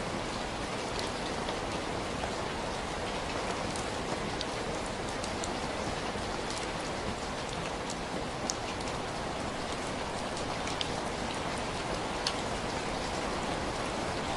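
Steady, even rain falling on a surface, with scattered small sharp ticks from individual drops or crackles.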